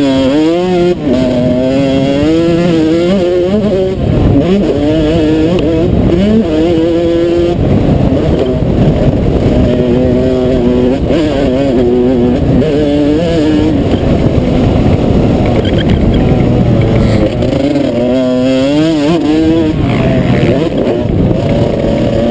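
Motocross dirt bike engine heard from on board, revving up in pitch, dropping and climbing again over and over as the rider works the throttle and gears, with heavy wind rumble on the microphone.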